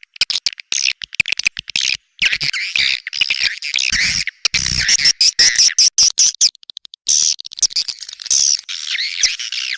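Swiftlet call recording: dense, chattering twitters and chirps mixed with quick clicks, broken by short gaps, with a brief run of rapid even clicks about two-thirds through. It is the kind of sound played to lure swiftlets into a nesting house.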